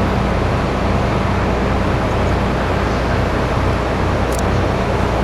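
Steady, even rumble of a train at a station, with a low steady hum underneath.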